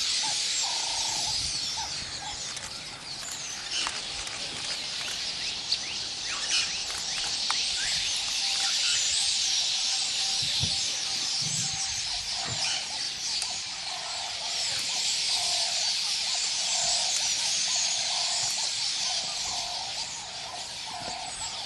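Outdoor bush ambience: many birds chirping over a steady, dense high-pitched hiss, with a lower call repeating about once a second.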